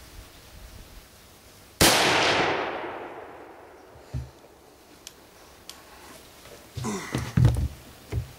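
A single shot from a Glenfield/Marlin 30A lever-action .30-30 rifle: a sharp crack followed by a long echo dying away over about a second and a half. About five seconds later comes a short cluster of metallic clacks and knocks as the lever action is worked to eject the case and chamber the next round.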